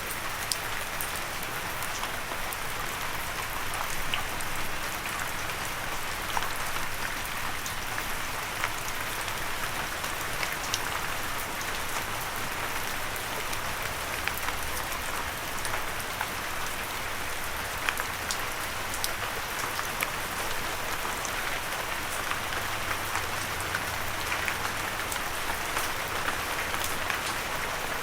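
Steady light rain falling, a continuous hiss dotted with the sharp taps of individual drops, without thunder.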